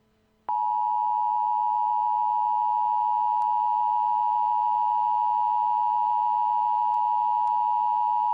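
Emergency Alert System attention tone: a single steady electronic tone just under 1 kHz that comes on sharply about half a second in and holds at an even level for about eight seconds, signalling that a warning message follows.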